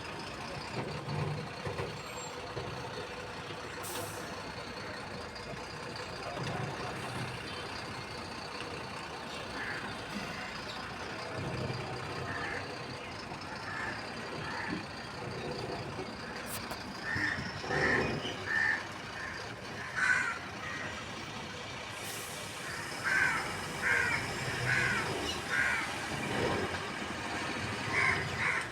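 Truck running steadily while it unloads a load of soil. In the second half, groups of short, repeated crow caws cut in over the engine.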